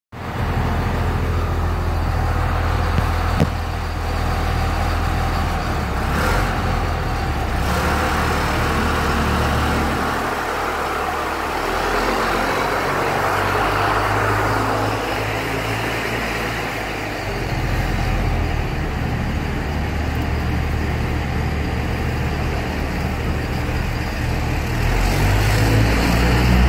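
2001 Dodge Ram 2500's turbo-diesel engine running through a 4-inch AFE exhaust, a steady low exhaust drone. Its tone shifts for several seconds in the middle, with less low end and more midrange, before the deep drone comes back.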